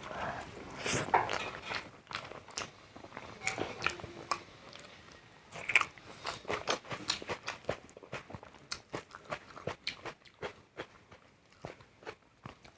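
A person eating close to the microphone: crunchy bites, the loudest about a second in and near the middle, followed by steady chewing with many small mouth clicks.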